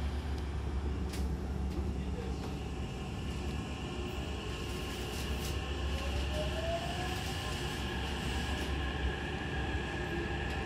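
Hankyu commuter train running, heard from inside the car: a steady low rumble of wheels and running gear. About six seconds in a whine rises in pitch, and high steady tones join as the train nears a station.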